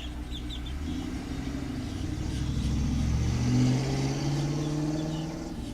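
A car driving past, its engine note rising as it speeds up, loudest about three and a half seconds in and then fading.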